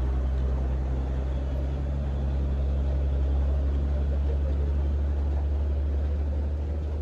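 Heavy truck's diesel engine running steadily, a deep, even drone.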